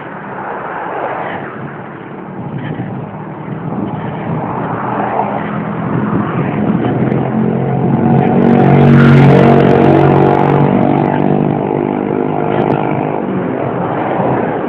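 A motor vehicle's engine grows louder, passes close by about nine seconds in, then fades away, over a steady rushing noise.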